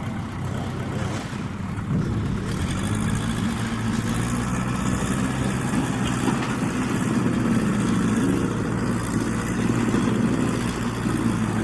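A motor vehicle engine running steadily at a fairly constant speed, a little louder from about two seconds in.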